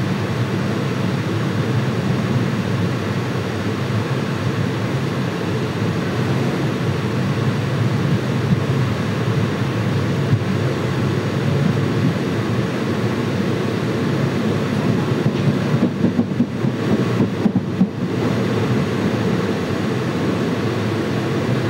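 Indian Railways express passenger coach running along the track, a steady rumble of wheels on rails heard from the open coach door. The noise turns uneven for a few seconds about two-thirds of the way through.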